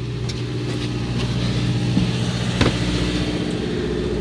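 Fishing boat's engine running steadily at low revs, a constant low hum, with one short knock about two and a half seconds in.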